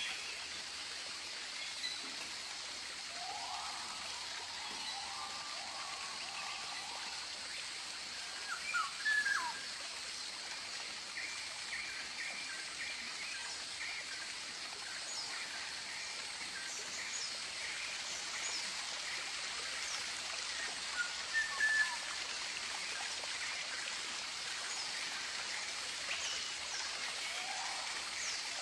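Tropical birds calling over a steady hiss like running water. A short run of rising notes comes a few seconds in, sharp chirps come about nine and twenty-one seconds in, and a long run of quick repeated notes fills the middle.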